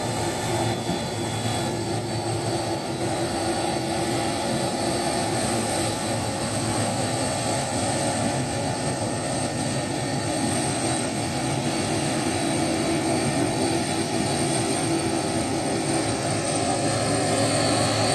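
Airliner's engines running steadily, a broad rumble with a steady high whine over it.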